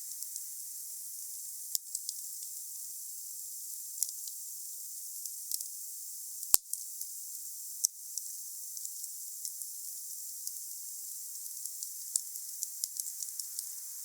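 Wood fire burning with a steady high hiss and scattered crackles. A sharp pop comes about six and a half seconds in and another about a second later.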